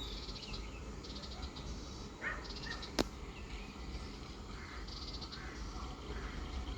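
Trackside ambience of small creatures calling: short, high, pulsing chirps repeat every second or two, with a lower call just over two seconds in and a single sharp click about three seconds in, over a steady low rumble.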